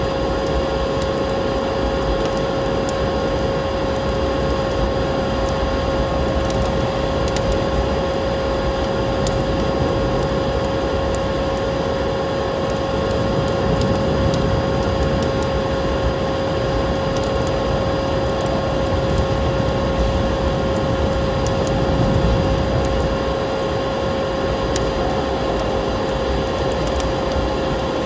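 Steady vacuum cleaner motor hum with a constant whine, layered with a wood fire crackling in scattered pops and a low wind rushing that swells twice.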